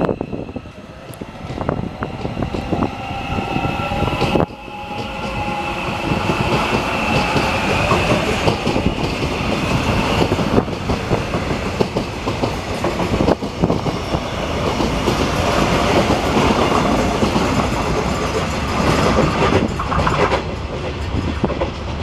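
Line 4 subway train moving along the station platform, its wheels knocking over the track, with a high whine that holds for several seconds in the first half.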